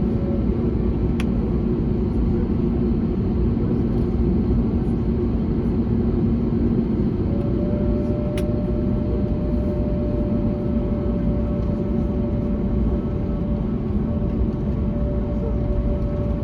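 Steady cabin noise of an Airbus A321neo with its Pratt & Whitney geared turbofan engines running: a low rumble with several steady engine tones, and a higher steady tone that joins about seven seconds in. Two faint clicks, one near the start and one about eight seconds in.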